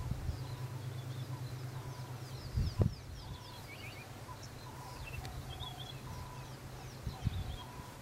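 Birds calling in the background: many short high chirps and some repeated mid-pitched notes, over a steady low hum. One sharp thump about three seconds in is the loudest sound.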